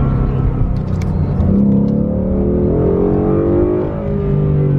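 Ford Mustang GT's 5.0 Coyote V8 pulling hard under acceleration, heard from inside the cabin. The engine note climbs for about two seconds, then drops at a gear change near the end.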